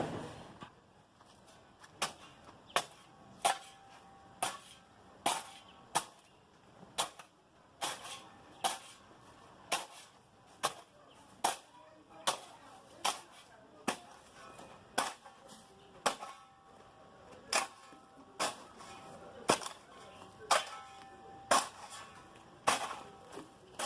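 A long series of sharp knocks or strikes, a little more than one a second, slightly uneven in spacing.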